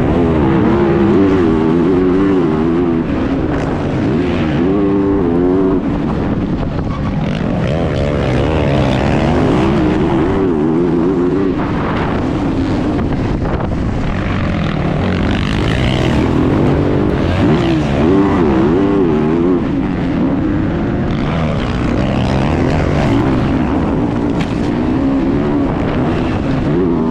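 Motocross bike engine racing on track, the pitch rising and falling over and over as the throttle opens and closes through the corners and gear changes.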